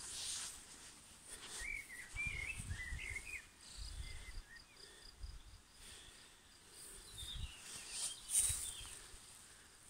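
Small birds chirping and singing in short bursts of quick, warbling notes, with irregular low rumbles on the phone's microphone and a brief rustle about eight seconds in.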